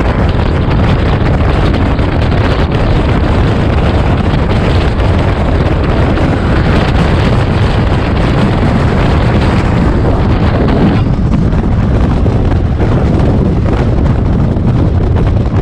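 Moving express train running at speed: a loud, steady rumble with wind rushing over the microphone. The higher hiss eases off about eleven seconds in.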